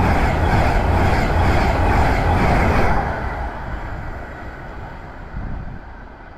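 An InterCity 225 train with a Class 91 electric locomotive passing: a loud rush of wheels on rail with a regular clatter. About three seconds in, as the end of the train goes by, the sound drops and then fades away.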